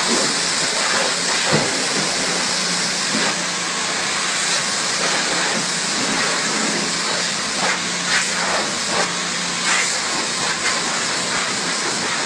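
Water spraying onto a car during a wash: a steady hiss of spray with scattered splashes.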